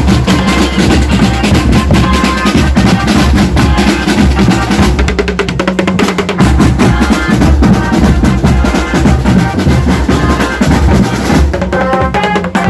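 Drum band playing loud, continuous marching percussion: bass drums and snare rolls, with some pitched instrument notes over them.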